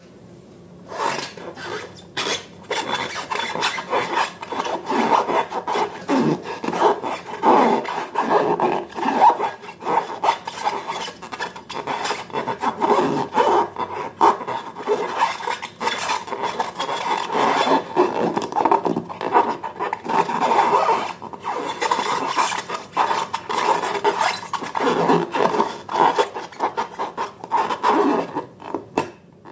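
Slime being worked and stirred: continuous irregular scraping and rubbing with small sticky clicks, starting about a second in.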